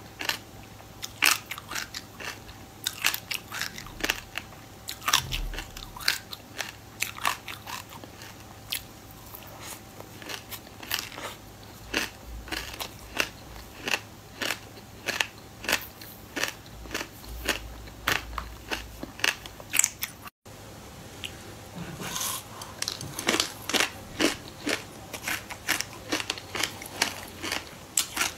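Close crunching and chewing of clumped raw buckwheat groats, a rapid run of sharp, crisp crackles. After a brief break about two-thirds of the way through, the crunching continues on clumped sesame seeds.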